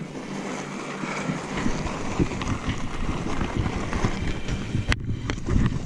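Wind buffeting the microphone over the uneven rumble of riding a rough dirt trail, with a sharp knock about five seconds in.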